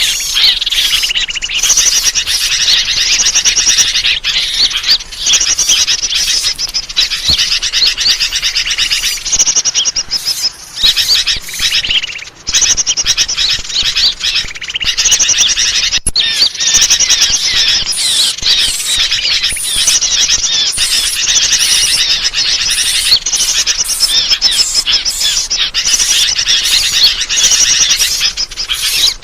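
Bird-lure recording of many small birds chirping and twittering together in a dense, unbroken chorus of rapid high-pitched chirps. There are short breaks about ten, twelve and sixteen seconds in. This kind of call track is played to draw wild birds in for trapping.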